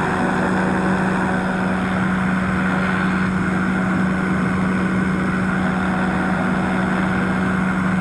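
Powered parachute's engine and propeller droning steadily in cruise flight, with a strong, even low hum that holds a constant pitch throughout.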